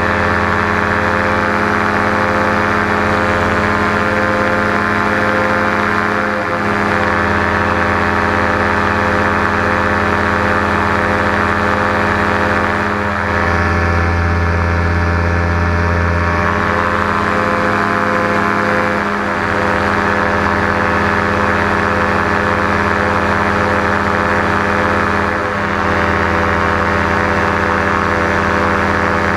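JPX paramotor's two-stroke engine and propeller running steadily under power, a continuous drone with a brief slight shift in tone about every six seconds.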